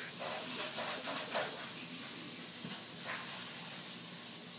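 Quiet steady hiss of room tone, with a few faint soft taps and rustles.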